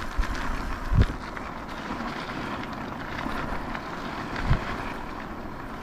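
Wind buffeting the camera microphone over a steady rushing noise, with two short dull low thumps, one about a second in and one past the middle.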